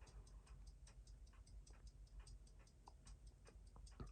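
Faint, rapid, even ticking of a running Seiko 6139 automatic chronograph's balance, several ticks a second, with a few light handling clicks in the second half.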